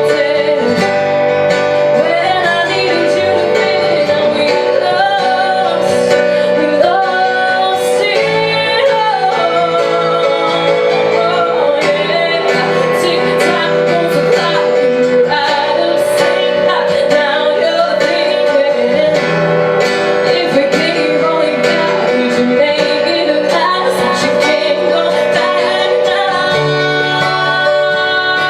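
A woman singing a song live, accompanied by guitar.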